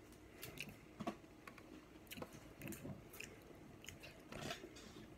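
A person's close-miked eating sounds: chewing with wet lip smacks and scattered soft clicks, faint, as she sucks seafood-boil sauce off her fingers.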